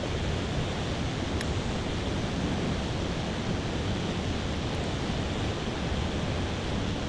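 Steady roar of rushing water from a large waterfall, an even rushing noise with no breaks. A single faint click sounds about a second and a half in.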